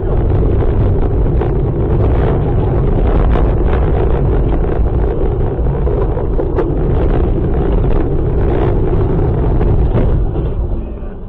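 Loud vehicle and wind noise buffeting a dashcam microphone, with many brief knocks and clicks through it. It eases down about ten seconds in.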